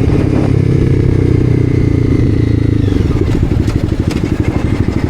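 Honda CBR300R single-cylinder engine running steadily, then the revs drop about three seconds in as the throttle closes, settling into a lower, lumpy run of distinct rapid beats.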